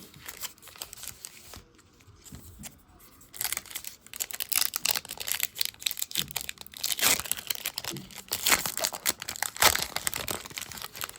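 Trading-card pack wrapper crinkling and tearing as it is opened, faint at first and much louder and busier from about three seconds in.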